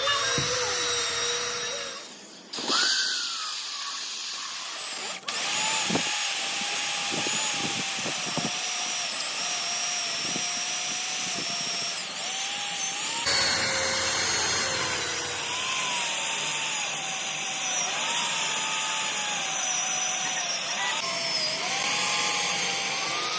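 Handheld electric power tool running under load on truck-frame metal, its motor pitch dipping and recovering as it bites. It stops briefly about two seconds in, then starts again.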